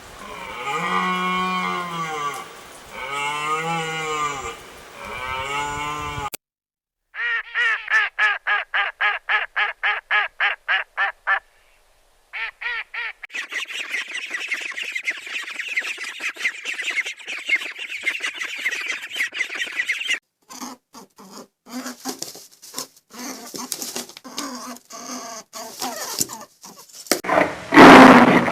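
A run of different animal calls edited one after another. First come three drawn-out calls, then a quick series of short repeated calls, then a busy high-pitched chatter of many birds. Scattered calls follow, and a loud call starts just before the end.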